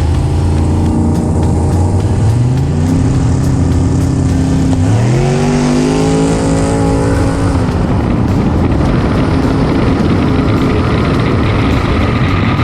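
Turbocharged LS V8 engine of a drag-racing pickup revving up in two steps, rising in pitch about two seconds in and again about five seconds in and holding high. From about seven seconds in it gives way to a loud, even rush of engine and road noise.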